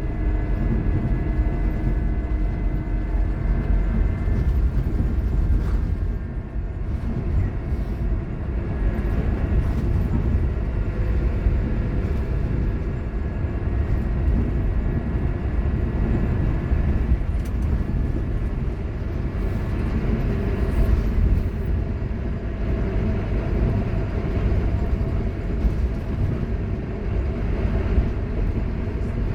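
Scania K230UB Omnilink bus under way: a steady low rumble of engine and running gear, with a faint, steady high whine at times from its ZF Ecomat automatic gearbox, which is loud on this bus.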